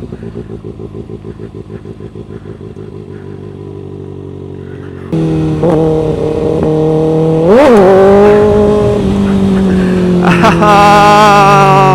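Kawasaki 636 sport bike's inline-four engine idling with a pulsing note. About five seconds in it revs up and pulls away, gives a sharp rev up and back down about halfway through, as in a clutch-up wheelie attempt, then runs on at higher revs, rising again near the end.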